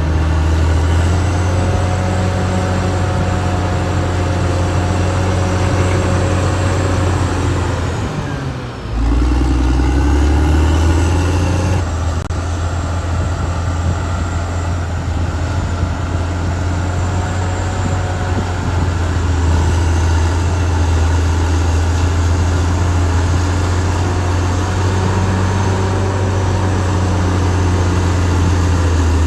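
Caterpillar D6R XL bulldozer's diesel engine running steadily while working. About eight seconds in the engine note dips briefly, then picks up again.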